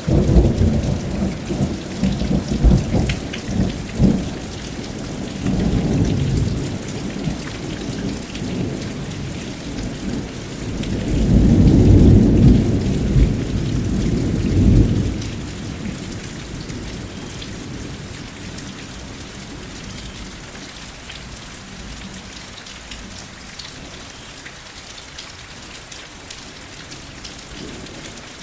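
Steady rain with rolling thunder. A rumbling peal with a few sharp cracks comes right at the start, another roll about five to seven seconds in, and the loudest roll about eleven to fifteen seconds in. After that the rain runs on alone.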